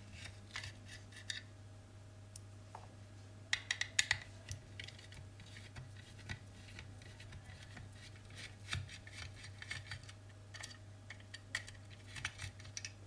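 Light clicks and taps of a handheld multimeter's plastic case and parts being handled and taken apart, with a quick run of louder clicks about four seconds in. A steady low hum runs underneath.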